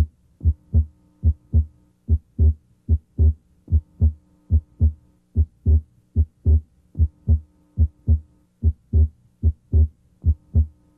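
Heart sounds heard through a stethoscope's diaphragm at the left second interspace (pulmonic area): regular lub-dub beats, about 70 a minute, with a faint steady hum behind. The second heart sound is split abnormally wide, a split that comes and goes with respiration.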